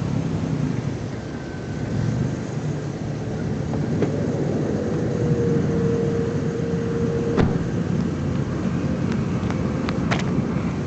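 V6 engine in a Mazda MX-5, running with its muffler deleted: a steady, low, loud exhaust rumble at low revs. A faint steady tone sounds in the middle, and a few sharp clicks come near the end.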